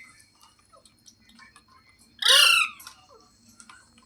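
A pet green parrot gives one loud, harsh squawk a little over two seconds in, lasting about half a second, with faint clicks around it.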